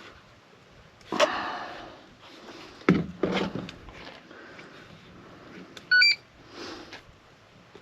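Handling noises, a rustle and a sharp knock, then a quick run of high electronic beeps about six seconds in, the loudest sound here, from RC radio gear being set up for telemetry.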